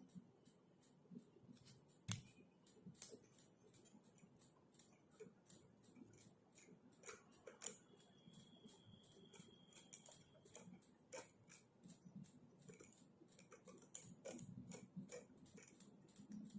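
Faint keyboard typing: a quick, uneven run of key clicks, with one sharper click about two seconds in.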